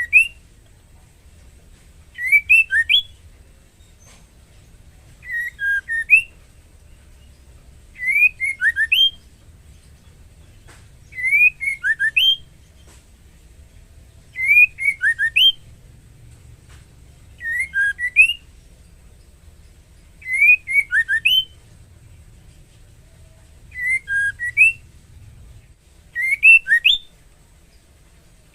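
Female white-rumped shama calling: a short phrase of quick rising whistled notes, repeated about every three seconds, some ten times. This is the call of a female in breeding condition calling to a male.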